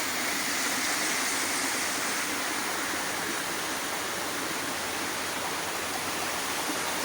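Steady rush of stream water pouring over rocks.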